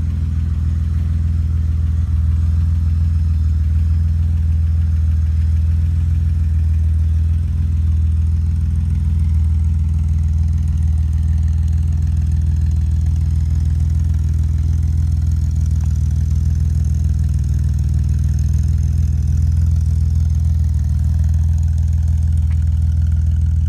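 1979 BMW 635CSi's straight-six engine idling steadily, a low, even exhaust hum with no revving.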